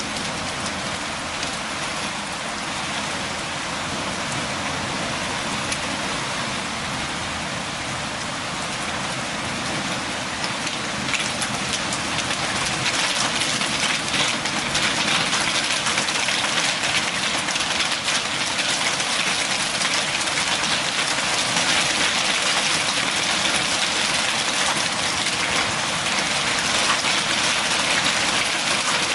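Steady rain falling and pattering on surfaces, an even hiss that grows a little heavier and louder about a third of the way through.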